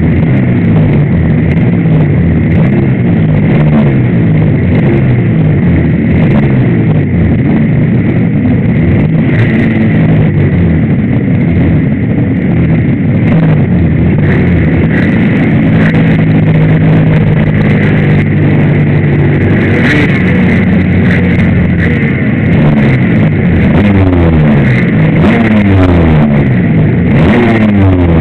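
Suzuki RGV250's two-stroke V-twin engine running at standstill, its revs rising and falling again and again, held steady for a few seconds around the middle.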